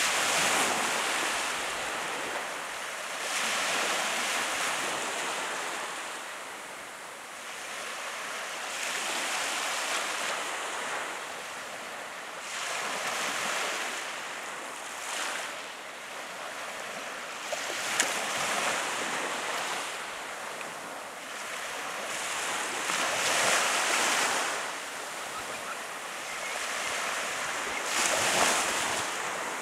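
Ocean surf breaking and washing on the shore, swelling and fading every few seconds. A single sharp click comes about eighteen seconds in.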